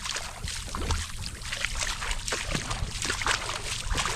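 Footsteps splashing and sloshing through shallow river water, an irregular run of small splashes, over a low rumble of wind on the microphone.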